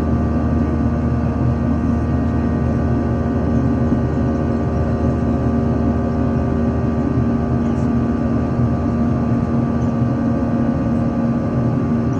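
Steady drone of an airliner's engines, a constant low rumble with several fixed tones over it.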